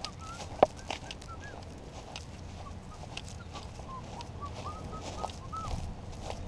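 Birds calling in many short, arching chirps, over a low steady rumble. Scattered clicks and knocks come from the quadcopter being handled, the sharpest about half a second in.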